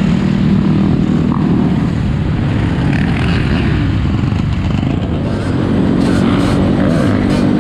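Four-wheeler (ATV) engines running loud nearby, a steady engine drone that eases off midway and picks up again about two-thirds through.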